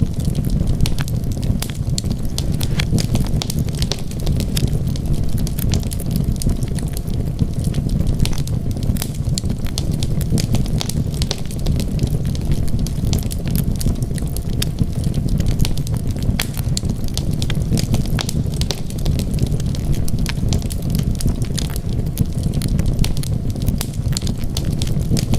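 Wood fire burning in a fireplace: a steady low rumble of flame with frequent sharp crackles and pops of burning wood.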